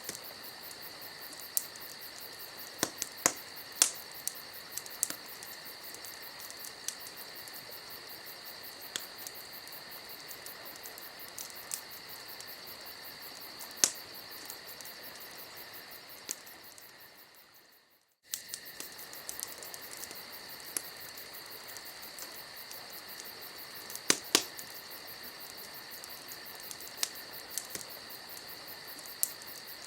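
Campfire crackling, with scattered sharp pops over a steady high insect chirring. The sound fades almost to nothing about sixteen seconds in and comes back abruptly about two seconds later.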